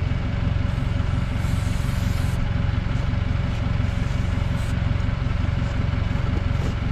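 A vehicle engine idling steadily at one constant speed, with no revving.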